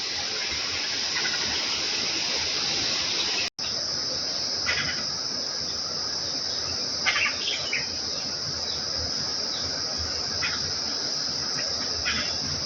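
A steady, high-pitched insect drone runs throughout, with a few short house sparrow chirps scattered over it: about five seconds in, a small cluster around seven seconds, and single chirps near ten and twelve seconds. The audio drops out for an instant about three and a half seconds in.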